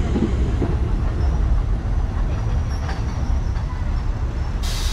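Steady low rumble of a passenger train heard from on board, with a faint tick about three seconds in and a hiss that starts just before the end.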